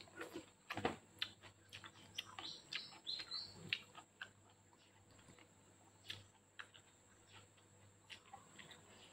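Mouth sounds of chewing spaghetti and raw lettuce: a busy run of quick wet clicks and crunches in the first four seconds, then fewer and sparser.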